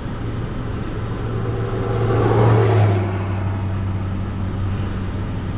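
A car passes by, its noise swelling and fading about two to three seconds in, over the steady low hum of an engine.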